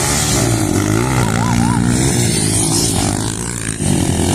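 Motorcycle engines running and revving, their pitch rising and falling, with a brief dip in loudness near the end.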